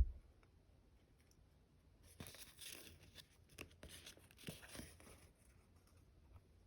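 Close-up crackling of sticker sheets and their plastic packaging being handled and peeled, a dense run of small clicks and rustles lasting about three seconds in the middle. A soft low bump at the very start.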